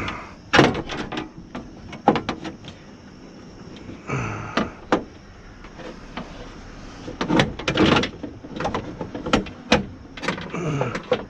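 Irregular metallic clicks, knocks and scrapes from a car door's window regulator and track as they are worked loose by hand, with the window glass still attached.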